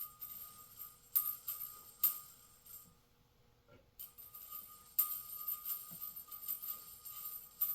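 A small metal sewing machine bobbin spinning and rattling as old thread is pulled off it by hand, a light metallic jingling with clicks. It stops about three seconds in and starts again about two seconds later.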